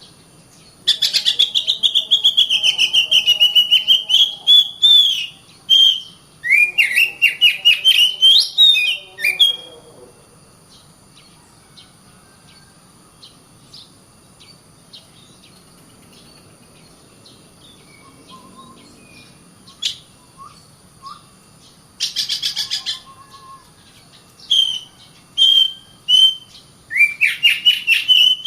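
Oriental magpie-robin (kacer) singing in loud bursts of rapid chattering, scratchy notes with sliding whistles, with a quieter gap of scattered soft notes in the middle and a run of rising notes near the end. A faint steady high-pitched tone runs underneath.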